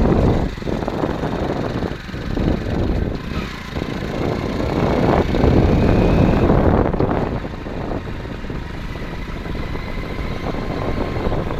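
Motor vehicle engine running as it travels, with wind rushing over the microphone; the loudness rises and falls.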